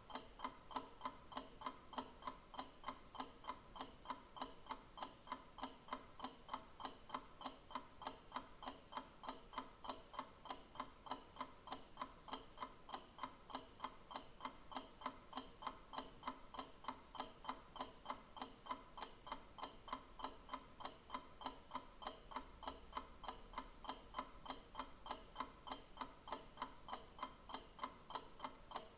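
Clock ticking with steady, evenly spaced ticks.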